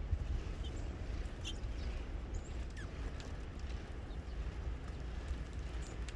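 A few faint, brief bird chips at scattered moments over a steady low rumble.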